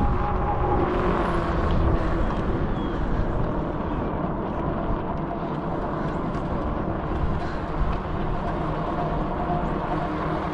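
Wind buffeting a phone's microphone during a fat-tire e-bike ride, a steady low rushing rumble. A faint steady whine from the e-bike's electric motor fades out in the first couple of seconds.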